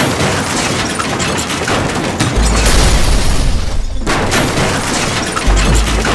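Crash and explosion sound effect: a loud, harsh rush of noise with deep booms, one about two and a half seconds in and another near the end.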